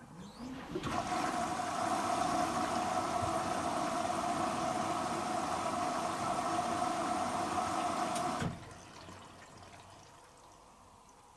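Hoover H-Wash & Dry 500 washer dryer's water inlet valve opening, with mains water rushing into the machine. The rush sets in just under a second in, holds steady, then cuts off suddenly a little over eight seconds in as the valve closes.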